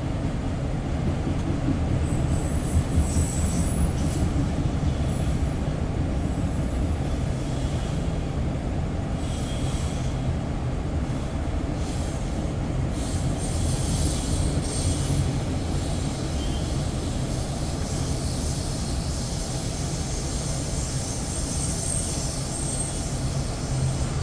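Loaded autorack freight cars rolling past on the rails: a steady low rumble of wheels on track, with thin high-pitched wheel squeals coming and going.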